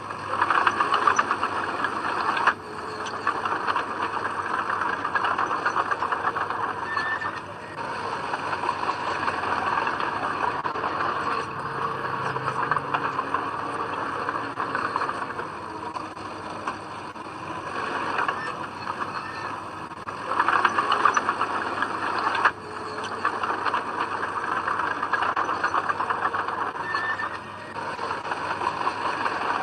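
Komatsu D20P small bulldozer's diesel engine running under load with a continuous rattling clatter of its tracks and blade, working soil. The sound drops off sharply twice, about two seconds in and again near three-quarters of the way through, then builds back up.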